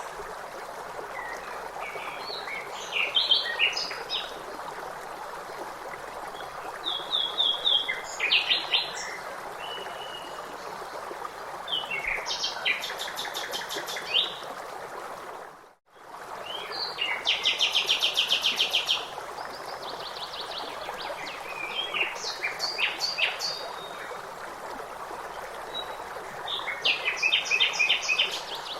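Songbirds calling and trilling in short phrases every few seconds over a steady wash of running water. The sound drops out briefly about halfway through.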